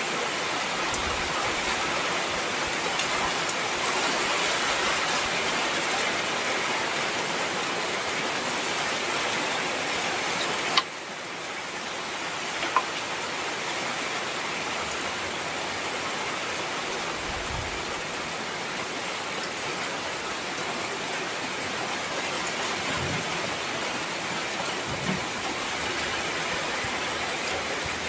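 Heavy rain pouring steadily. A sharp click comes about eleven seconds in, after which the rain is a little quieter for a few seconds; a second, smaller click follows about two seconds later.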